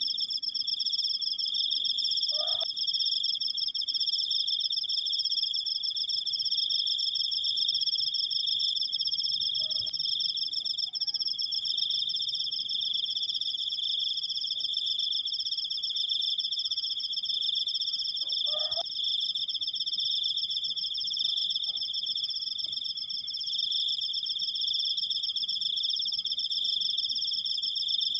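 A cricket singing one long, unbroken high-pitched trill. Three brief faint chirps lower in pitch break in at about 2½, 10 and 19 seconds.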